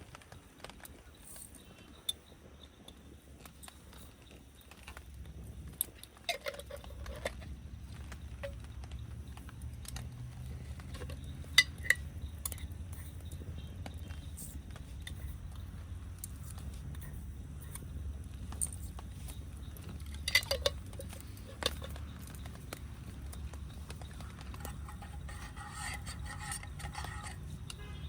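Metal cookware and utensils clinking and knocking now and then over a steady low rumble that comes up about five seconds in.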